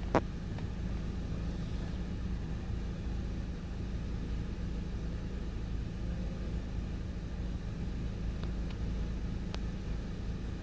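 Holden Cruze's four-cylinder petrol engine idling steadily, a low even hum heard from inside the cabin. A single sharp click comes just after the start, and two faint ticks near the end.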